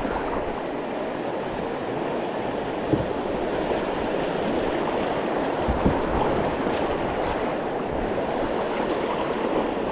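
Rushing whitewater of river rapids around a kayak, a steady loud rush with a couple of brief knocks.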